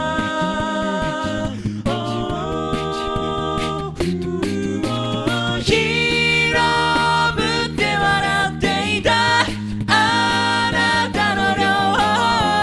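A cappella group singing a J-pop song: several voices in close harmony over a sung bass line, with a beat of vocal percussion.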